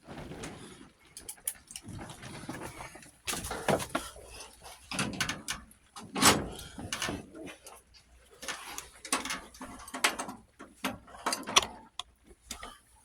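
Irregular knocks, clanks and scraping of hand tools and metal parts being worked on during the dismantling of an old lawn tractor.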